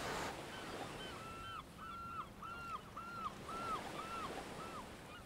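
A bird calling about eight times in a quick even series, each call a short arched note, over a steady low wash of water at the shore.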